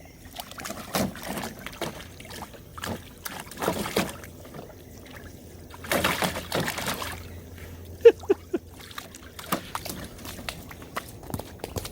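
Water splashing and sloshing in irregular bursts as a dog moves about in a small pool going for a ball, over a low trickle of running water. A short pitched squeak about eight seconds in is the loudest moment.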